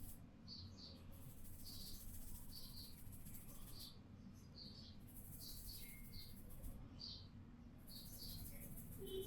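Faint small-bird chirps, short and a few a second, over a soft hiss of hands rubbing through hair that comes and goes with the massage strokes.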